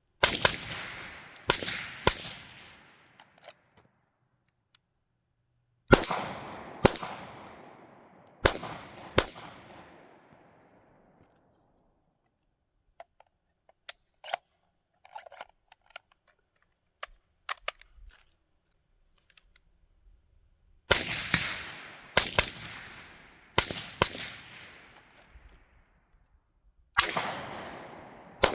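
Beretta 92X 9mm pistol firing in short strings at steel targets, each shot trailing off in a long echo. There are about three shots, then four, a pause with faint clicks and clinks, then about five more and two near the end.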